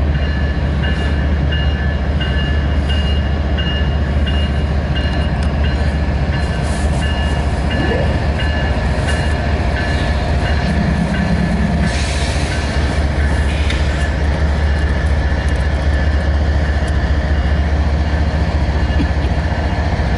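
CSX freight train rolling past: a steady low rumble of the cars, with wheel clicks over the rail joints and a faint high wheel squeal that comes and goes.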